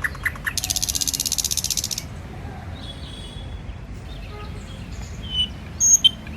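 An insect trills in a fast, even, pulsing buzz for about a second and a half early on. Short, high bird chirps come in near the end.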